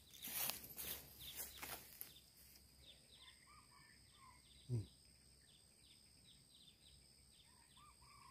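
Faint wild birdsong: a quick, regular series of short falling high chirps with a few soft, slurred notes in small groups, over a steady high insect drone. The first two seconds carry rustling noises, and a single brief low thump comes about halfway.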